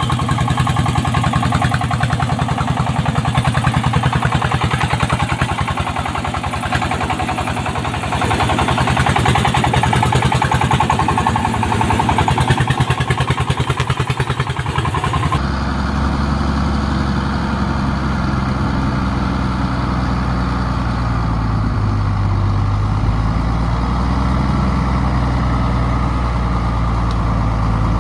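Diesel engine of a walking tractor (power tiller) running with a rapid, even chugging. About fifteen seconds in, the sound cuts to another machine's engine running deeper and steadier.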